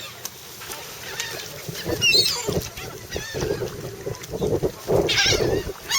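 A crowd of seagulls calling over one another, many short harsh squawks overlapping, loudest about two seconds in and again near the end, as they gather for thrown bread.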